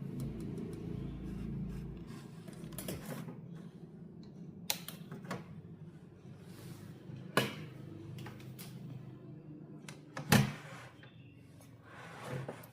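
Scattered sharp clicks and knocks, like small parts or tools being handled on a workbench, over a steady low hum.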